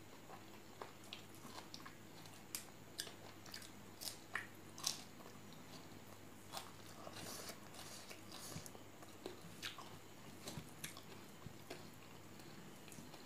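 A person chewing and biting food by mouth, mukbang-style: irregular small clicks and crunches, several a second, a few louder ones in the first half.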